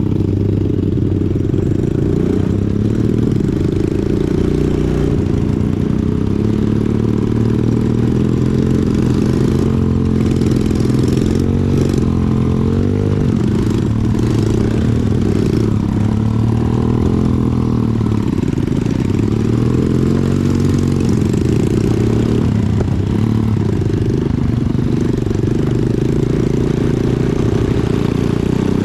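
Small single-cylinder off-road engine of an ATV or pit bike running under way, its pitch rising and falling with the throttle several times.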